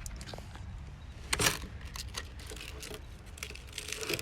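Handling noise: a few light clicks and one sharper knock about a second and a half in, over a low steady rumble.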